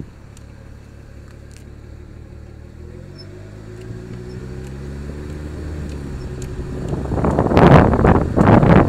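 BMW E90 335i driving, its engine rising in pitch as it speeds up. A loud rushing noise takes over from about seven seconds in.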